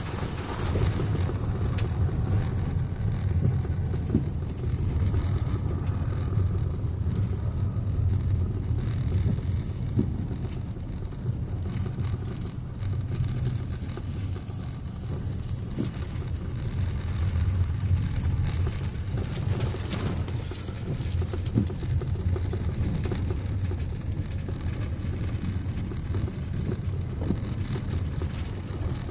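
Steady low rumble of a vehicle running, with some wind noise.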